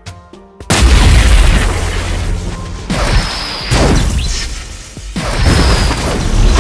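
Quiet music notes, then about a second in a sudden loud booming blast with a long noisy rumble, followed by three more blasts, like explosion sound effects laid over the music.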